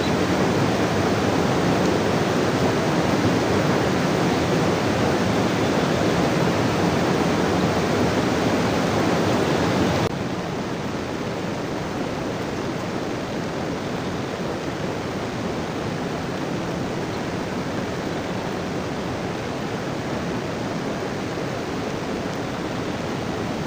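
Heavy rain falling steadily, a dense even hiss. It drops abruptly in level about ten seconds in, then goes on steady and quieter.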